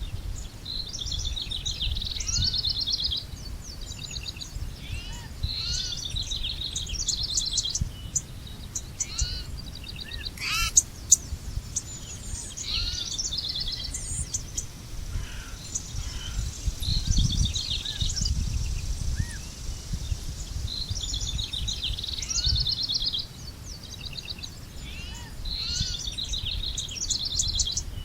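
Songbirds singing short, quickly repeated trilled phrases, one phrase every few seconds, over a steady low rumble. One sharp click about eleven seconds in.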